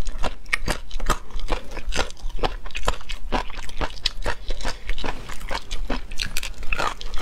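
Close-miked mouth sounds of chewing tough, crunchy tendon and gristle: a dense, irregular run of sharp crunches, several a second.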